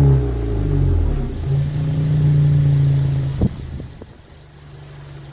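Suzuki Swift Sport ZC33S's 1.4-litre turbocharged four-cylinder through an Earl's High Performance Muffler I and Racing Center Pipe II: revs falling away, then a steady low drone. A short sharp knock about three and a half seconds in, after which the engine runs much more quietly.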